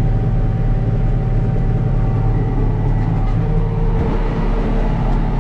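Case IH 7120 tractor's six-cylinder diesel engine running steadily under load while pulling a corn planter, with a brief knock about four seconds in.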